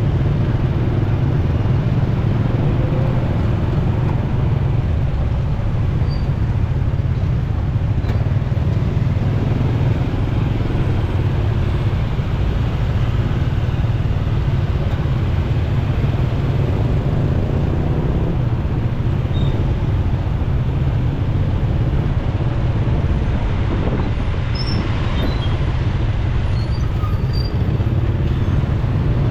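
Riding a motorcycle in city traffic: a steady, heavy low rumble of wind on the microphone mixed with engine and road noise, with the drone of surrounding traffic.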